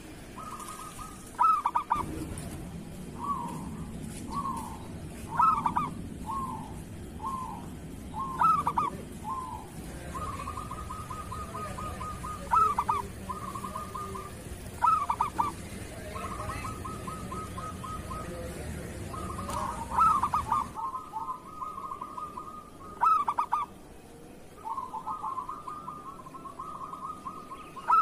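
Zebra dove (perkutut) cooing: short soft coos alternate with rapid trilled runs of notes, and louder sharp notes come every couple of seconds. A low steady hum lies underneath and stops about three-quarters of the way through.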